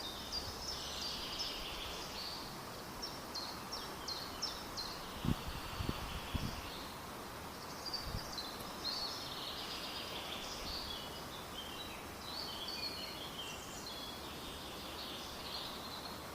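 Birds singing, with runs of short high chirps and trilled phrases over a steady faint outdoor hiss. A few brief low thumps come around the middle.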